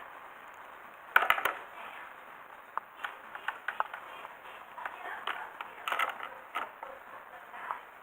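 Scattered sharp clicks and knocks, with a quick cluster of several about a second in and more spread through the middle.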